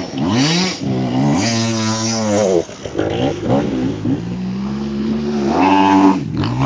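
Off-road vehicle's engine revving hard, its pitch rising and falling several times in quick succession, with longer high revs near the middle and again near the end.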